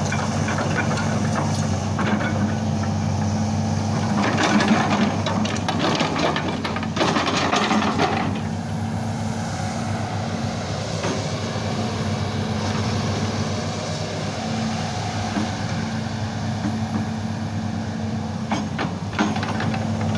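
Hitachi ZX200 hydraulic excavator's diesel engine running steadily, with a few seconds of metallic clatter about four seconds in and a few knocks near the end.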